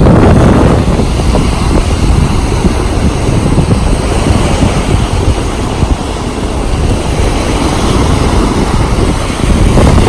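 Strong gusty wind blowing across the microphone, a loud, fluctuating noise that eases a little after about six seconds and picks up again near the end.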